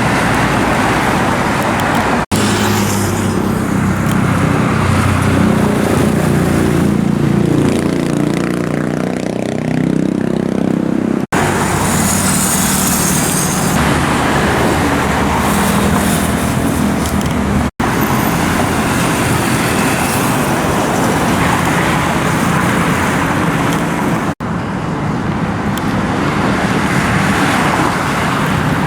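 Busy road traffic with motorcycles running past, their engines rising and falling in pitch as they speed up and slow down. The sound breaks off abruptly four times.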